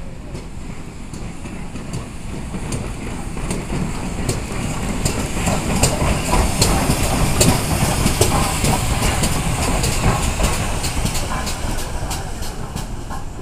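A train passing on rails: wheels click over the rail joints, the sound swelling to its loudest about halfway through and then fading.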